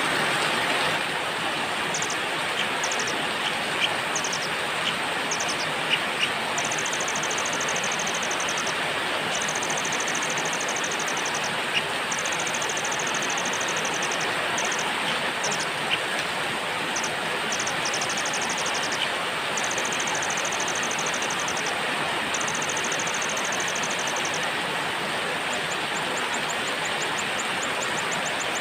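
Steady heavy rain with small songbirds giving rapid, very high trills in bouts of one to two seconds, plus a few sharp ticks.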